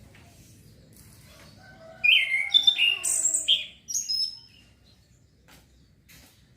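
Young male orange-headed thrush (anis kembang) singing one short, varied phrase of clear whistled notes, about two seconds in and lasting some two seconds: a young bird practising its song.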